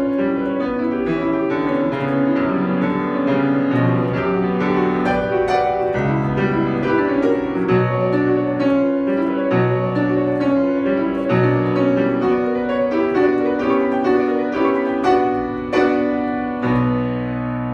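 Solo piano playing a classical piece: a dense run of quickly changing notes and chords, then a low chord struck and held near the end, ringing as it begins to fade.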